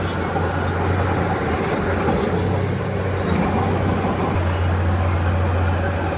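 Heavy diesel earthmoving machinery running steadily, a deep constant engine hum, with short faint high squeaks now and then.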